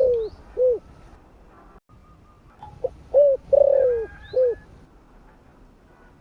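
Spotted dove cooing: the end of one phrase at the start, then a full phrase about three seconds in, a short note, two rounded notes, a long falling note and a closing note.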